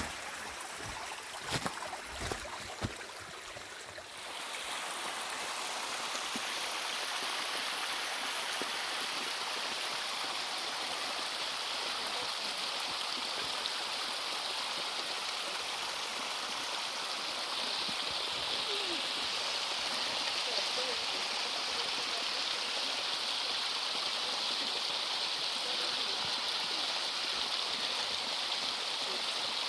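Steady rushing of water, an even hiss with no break, that grows a little brighter about halfway through. A few knocks sound in the first few seconds.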